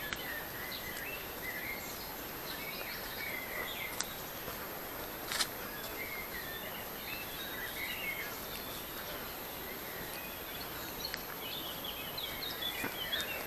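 Birds chirping and calling over a faint, steady outdoor hiss, with two short clicks about four and five and a half seconds in.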